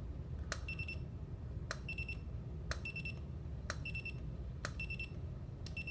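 Einstein studio flash units being test-fired about once a second, five times: each pop is a sharp click followed a moment later by a short high beep as the unit recycles. The flash is being checked for intermittent misfires.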